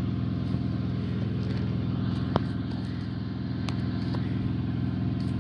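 An engine running steadily at an even speed, with a couple of faint clicks in the middle.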